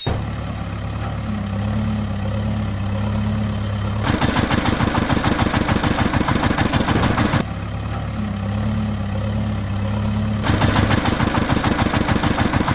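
Vehicle engine sound effect: a steady idling hum that twice switches to a louder, fast knocking run, as if the engine is put under load.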